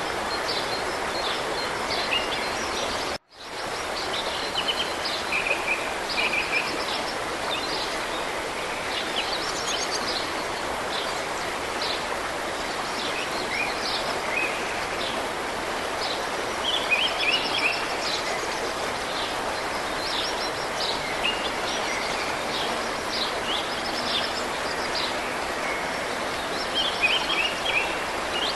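Steady rush of flowing river water, with small birds chirping and trilling over it. The sound cuts out for a moment about three seconds in.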